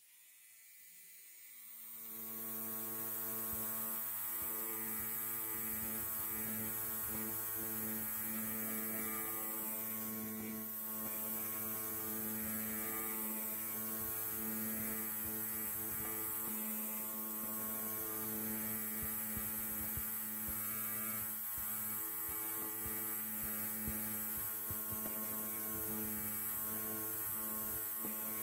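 Electric hair clipper running with a steady low buzz, fading in from silence over the first two seconds.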